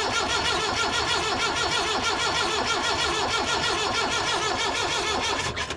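Starter motor cranking a Perkins 4.203 diesel engine with an even, rhythmic chug, stopping near the end without the engine firing. It is being turned over on the key to push fuel through the injection pump with a bleed nipple cracked open.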